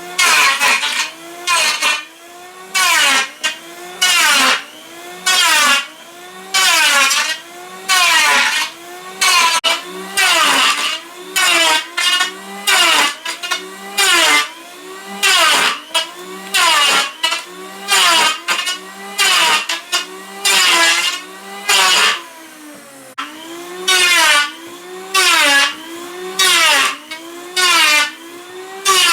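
Hand saw cutting through wood in steady back-and-forth strokes, about one every 1.3 seconds, each a rasping stroke. The sawing pauses briefly about 22 seconds in, then resumes.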